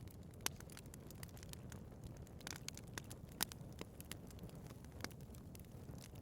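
Wood fire burning in a fireplace, with a steady low rumble and frequent sharp crackles and pops, two of them louder, about half a second in and near the middle.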